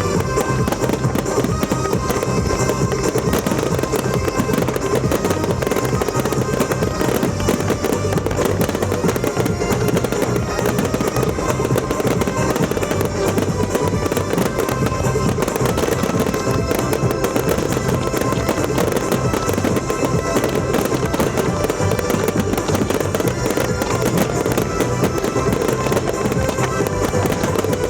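Fireworks display: a dense, continuous crackle of shell bursts and crackling stars over loud music with a steady, driving beat.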